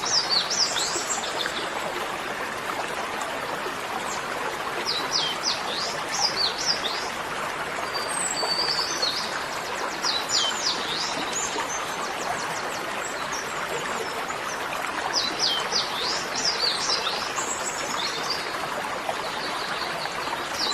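A small songbird repeating a short burst of quick, high chirps about every five seconds, over a steady rushing noise like running water.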